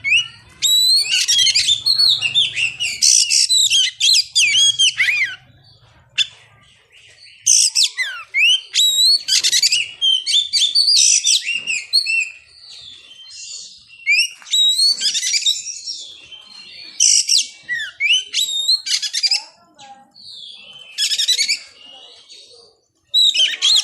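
Oriental magpie-robin (kacer) singing: loud, rapidly varied phrases of sweeping whistles and chirps, delivered in bursts of a second or three with short pauses between.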